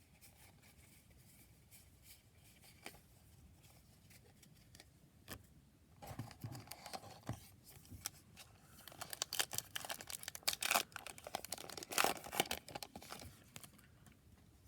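Wrapper of a baseball-card pack being torn open and crinkled: a quiet stretch with a few light clicks, then from about six seconds in a busy run of rustling and crackling that is loudest near the end.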